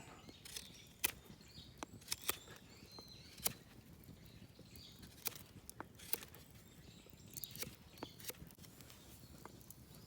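Knife carving a fallen cherry branch, with irregular sharp clicks and snaps as the blade bites and shaves the wood around a hard knot.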